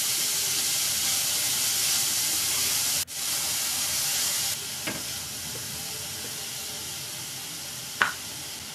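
Diced beetroot and onion sizzling in hot oil in a kadai while being stirred with a wooden spatula: a steady frying hiss with a couple of light scrapes of the spatula against the pan. About three seconds in the hiss cuts out for an instant, then comes back and turns quieter.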